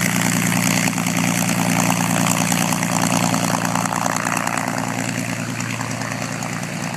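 P-51B Mustang's Packard Merlin V-12 aero engine and propeller running steadily at low power, as for idling or taxiing. It grows slowly quieter over the last few seconds.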